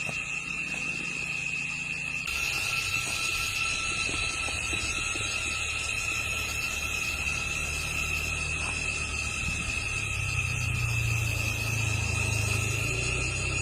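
Insects chirring steadily, with a low rumble underneath that grows louder from about ten seconds in.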